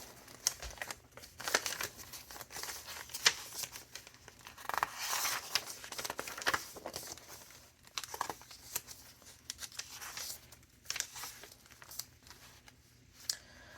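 Paper pages of a thick handmade junk journal being turned and handled: irregular rustling and crinkling swishes with scattered soft clicks.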